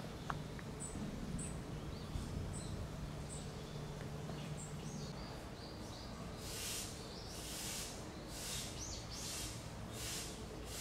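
Bird chirping in the background, short high notes repeating about once a second, then a run of harsher hiss-like calls in the second half, over a faint low hum.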